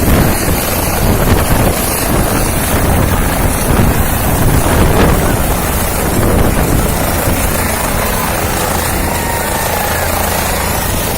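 Helicopter running: a loud, steady rotor and engine noise with a constant low drone.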